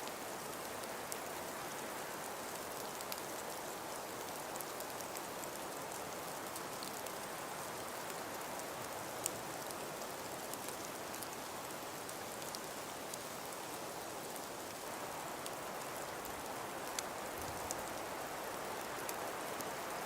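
Steady hiss of wind-driven snowfall, with many scattered light ticks of precipitation striking a surface.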